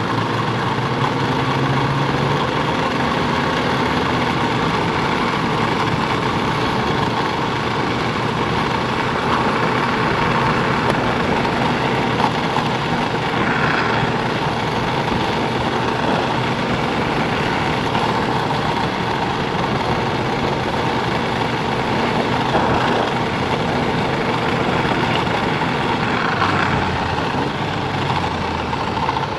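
Snowmobile running at speed, a steady loud mix of engine and track noise that holds level throughout.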